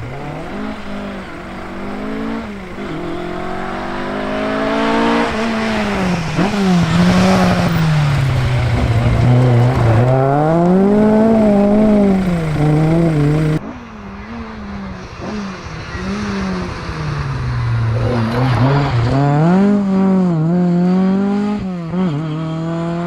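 Rally car engines running hard, the engine note climbing and dropping over and over as the cars accelerate, lift and change gear. An abrupt cut about two thirds of the way through switches to another pass with the same rising and falling engine note.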